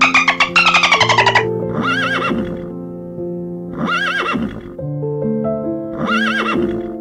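A bottlenose dolphin's rapid pulsed calls, falling in pitch, for the first second and a half; then a horse whinnying three times, about two seconds apart, over soft piano music.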